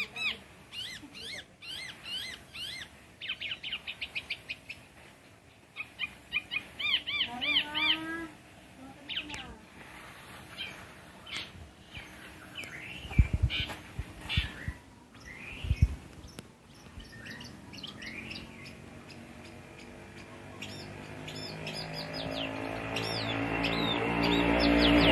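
Songbirds chirping and singing in quick, repeated short notes that rise and fall in pitch, with a run of rising notes about a third of the way in. A few sharp knocks come near the middle, and a low hum with a steady pitch swells louder near the end.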